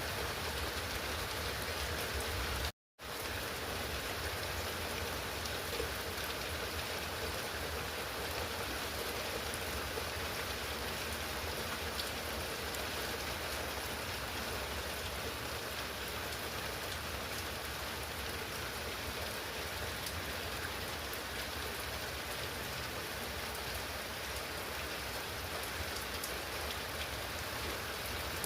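Steady rain falling during a thunderstorm. The sound cuts out completely for a fraction of a second a little under three seconds in, then the rain resumes unchanged.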